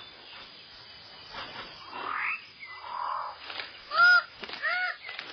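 Rainforest birds calling: scattered calls, including a rising one, then from about four seconds in a string of loud, arched, repeated calls, roughly one a second.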